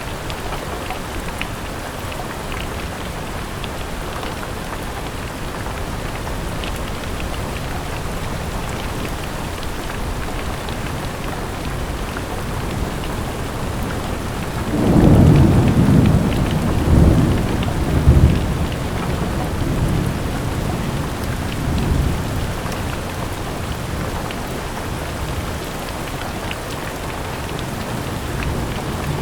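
Steady rain falling, with a roll of thunder about halfway through that rumbles low and peaks several times over some seven seconds before fading back under the rain.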